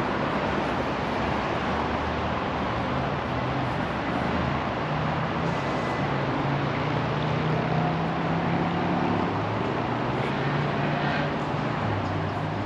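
City street traffic: a steady wash of passing cars' engines and tyres, with a low engine hum that shifts in pitch as vehicles go by.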